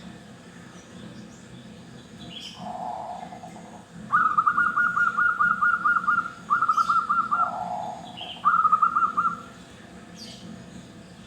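Zebra doves singing: two soft low coos, and three loud phrases of rapid staccato trilled notes, the first about two seconds long starting about four seconds in, with two shorter ones after it. Faint high chirps sound now and then.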